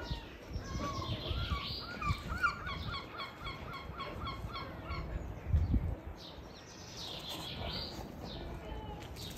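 A bird calling a rapid run of short repeated notes, about three or four a second, for several seconds, with fainter calls a few seconds later. A low bump a little after halfway is the loudest moment.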